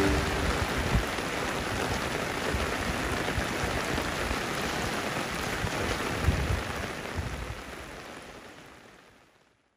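Heavy rain pouring steadily onto muddy ground, with a couple of low thumps, fading out near the end.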